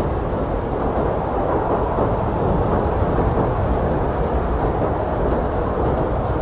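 Strong blizzard wind blowing steadily as a deep, dense rushing rumble, with no gusts or breaks.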